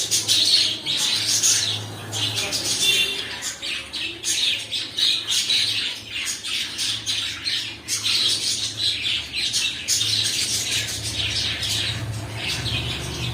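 Cockatiels chirping and squawking in a dense, continuous chatter over a steady low hum.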